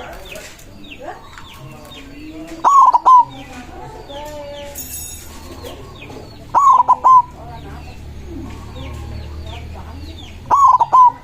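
White zebra dove (perkutut) cooing its song: three short bursts of quick staccato notes, about four seconds apart, over faint chirping of small birds.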